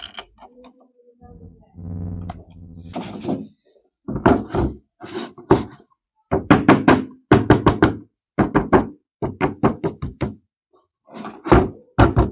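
A low buzzing tone for about two seconds, then a long run of sharp knocks and clatters in quick clusters, as of plastic toy parts and packaging being handled.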